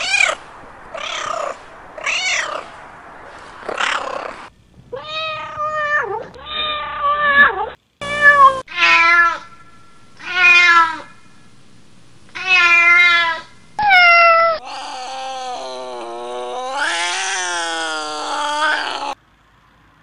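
Domestic cats meowing: about a dozen short meows, one after another, with abrupt cuts between them. Near the end comes one long, wavering yowl that lasts about four seconds.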